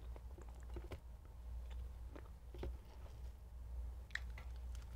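Close-miked chewing of soft French toast, with scattered small mouth and fork clicks, the sharpest about four seconds in, over a low steady hum.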